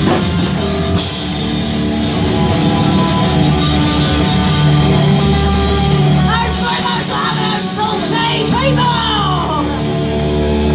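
Live punk rock band playing loud: held chords on distorted guitar and bass over drums, with cymbal crashes near the start and about a second in, and singing over it in the second half.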